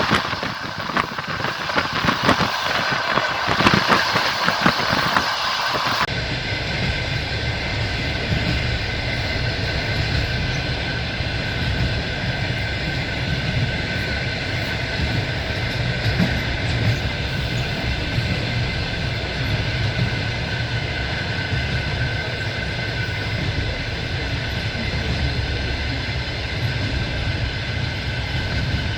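Passenger train running, heard from a carriage window: wheels clattering over the rails with a running rumble. About six seconds in the sound changes abruptly from a brighter clatter to a steadier, deeper rumble with a faint steady whine.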